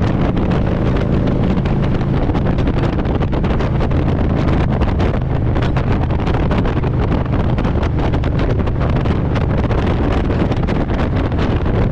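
Harley-Davidson Road Glide's V-twin engine running steadily while riding, with wind rushing over the microphone.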